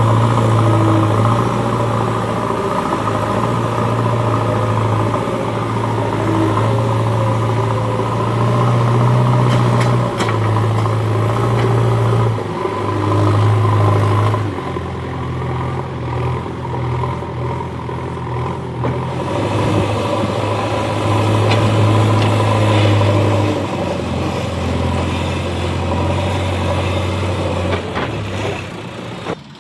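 Heavy diesel engine of a tractor or earth-moving machine running, its speed rising and falling every few seconds, with the sound dropping away near the end.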